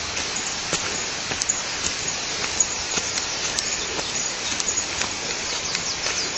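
Water pattering and splashing steadily, with many small crackling drops over a constant hiss.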